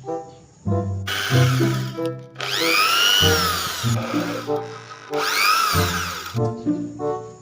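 Electric drill whirring in three bursts, its pitch rising and then falling in each, over background music.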